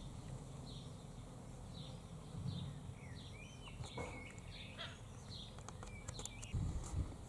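Birds calling in the background: a short high chirp falling in pitch repeats about once a second, with other brief whistled notes in the middle. A few low thumps come near the end.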